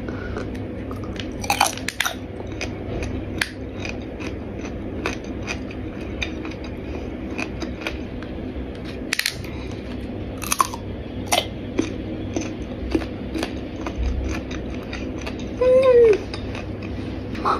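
A person chewing iced fruit, with sharp crunches scattered irregularly throughout and a short hummed 'mm' near the end.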